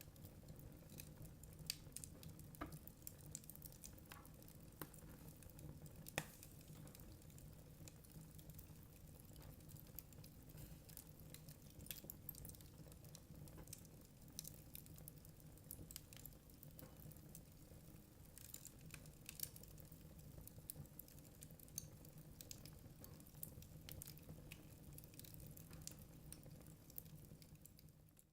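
Burning wood logs crackling faintly, with irregular sharp pops and snaps scattered throughout over a steady low hum.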